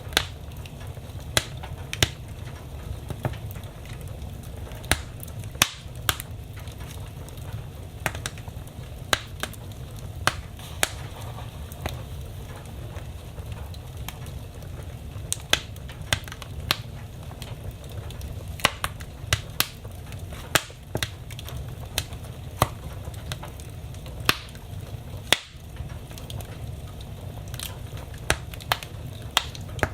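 Wood fire burning in a fireplace: irregular sharp crackles and pops, roughly one or two a second, over a steady low rumble.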